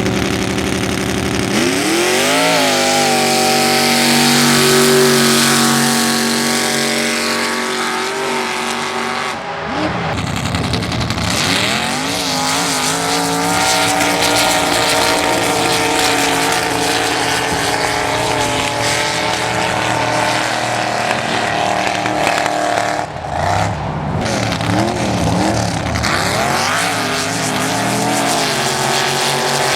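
Mud drag racing truck's engine running at high revs under hard throttle through a run. The revs climb sharply about two seconds in, and later waver up and down.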